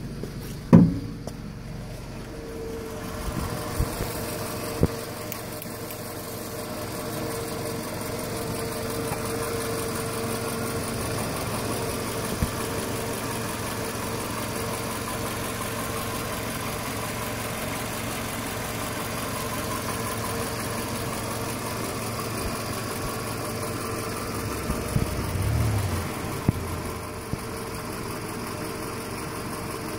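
2008 Scion xB's 2.4-litre 2AZ-FE four-cylinder engine idling steadily, heard close up under the open hood. A loud thump comes about a second in, and a few light clicks follow.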